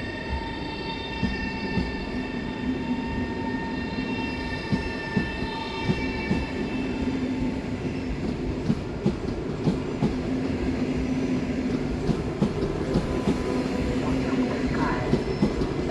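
Train rolling through the station, its wheels clicking over rail joints and points, with a steady whine of several even tones that fades out about six seconds in.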